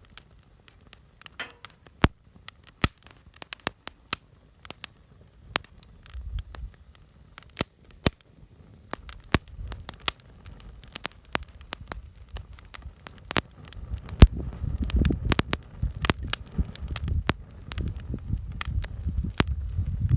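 Wood campfire crackling, with many sharp, irregular pops. From about two-thirds of the way in, a low rumble builds underneath.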